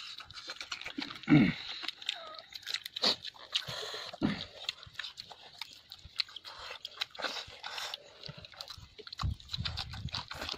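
Close-up eating sounds: wet chewing and lip-smacking with crisp crunches, as rice and fried chicken are eaten by hand. A brief vocal sound comes about a second in.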